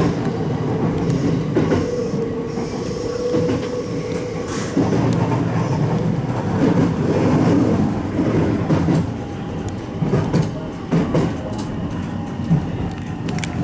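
Electric commuter train running along the track, heard from inside the car, with a steady rumble and scattered clicks of the wheels over the rails. A short steady whine runs for a couple of seconds early in the run toward the station.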